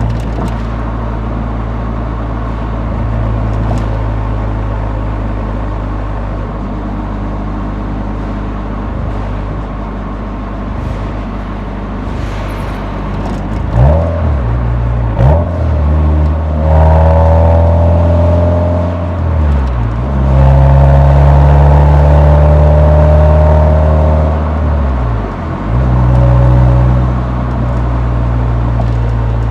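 Exhaust note of a Nissan 180SX while driving: a steady low drone at cruise, then a couple of quick revs and two strong pulls with the pitch climbing, each broken by a brief drop at a gear change, before it settles back to a steady cruise.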